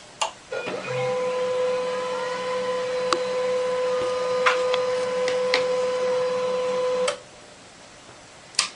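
Printer running: a steady motor whine with a few sharp clicks, starting about a second in and cutting off suddenly about seven seconds in, followed by a single click near the end.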